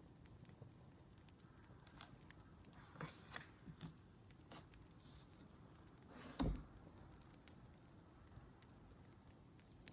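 Faint crackling of a wood fire, scattered small pops and snaps, with a few soft rustles a few seconds in and a dull thump about six and a half seconds in.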